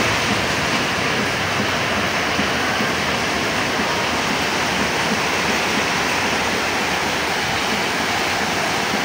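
Heavy rain falling, a steady even hiss of water with no breaks.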